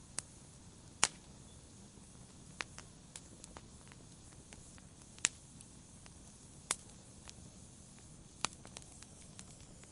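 Wood fire crackling in a fireplace: irregular sharp pops and snaps, roughly one every second or so, over a soft steady hiss. The loudest pop comes about a second in.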